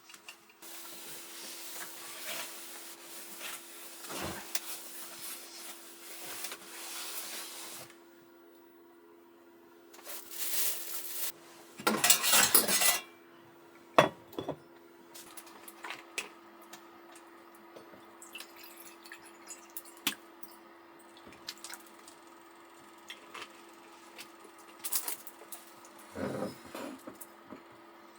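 Kitchen sounds: water runs for several seconds, then dishes and utensils clink and clatter in scattered knocks, with a steady low hum underneath.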